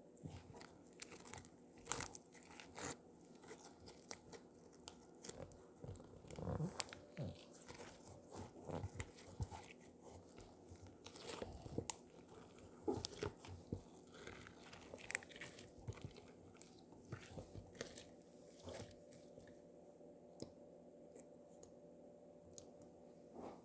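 Slime handled close to the microphone: irregular small clicks, crackles and squishes, with fewer of them in the last few seconds.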